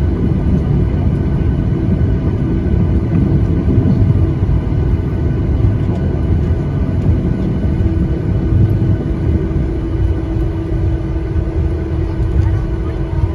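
Cabin noise inside a Boeing 737-800 on the ground after landing: a steady low rumble from the engines and airflow, with faint steady tones above it. A steady hum comes up about halfway through.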